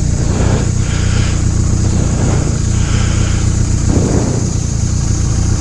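Yamaha R1 inline-four engine with a Two Brothers exhaust running at a steady, unchanging speed, under a steady rush of air noise.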